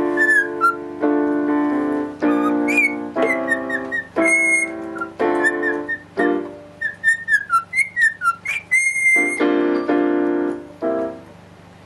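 A parrot whistling short, gliding notes along with piano chords. Both stop near the end.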